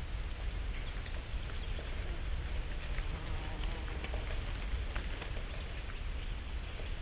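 Dry autumn leaves falling through the branches and landing on the leaf litter: many small, scattered ticks and patters, like light rain, over a low steady rumble.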